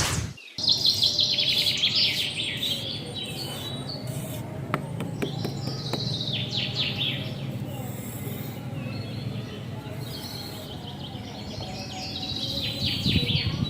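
Small birds chirping in quick, falling runs, loudest about a second in and again near the end, over a steady low hum.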